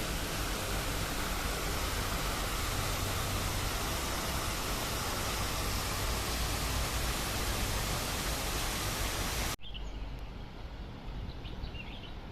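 Steady rushing noise of falling water, even across low and high pitches, that cuts off abruptly about nine and a half seconds in, leaving a quieter background with a few faint high chirps.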